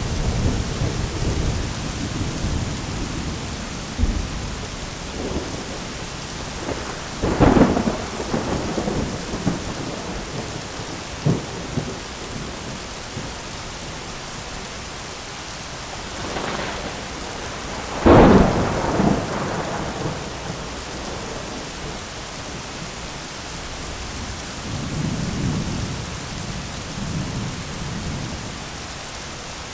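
Thunderstorm: steady heavy rain hiss with rolling thunder, two sharp close thunderclaps about a third and two thirds of the way through that fade into rumbles, and softer low rumbling near the end.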